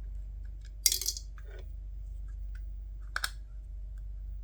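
Small screws and plastic headset parts clicking and clinking on a work surface during disassembly: a sharp clink about a second in, a lighter tap shortly after, and a quick double click near three seconds in, over a steady low hum.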